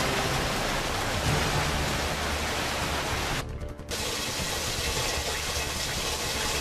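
Heavy rain pouring onto a paved street, a steady hiss with a low rumble beneath, that briefly drops out about three and a half seconds in.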